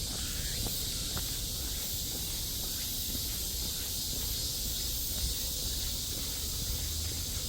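Steady high-pitched drone of a summer cicada chorus, with faint footsteps and a low rumble from walking with the camera.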